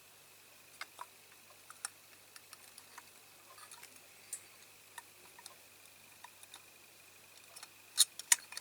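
Small, irregular clicks and taps of diecast metal model parts being handled and pressed together, with a quick run of sharper clicks near the end.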